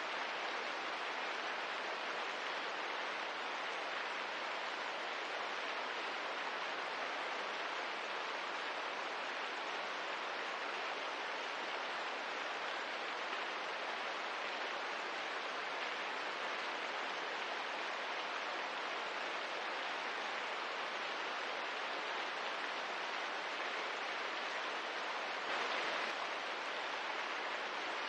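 Steady, gentle rain: an even hiss with no distinct drops, swelling slightly for a moment near the end.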